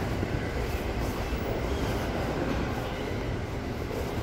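Passenger train running steadily on its tracks, an even noise of wheels and car heavy in the low end, with no distinct clanks or squeals.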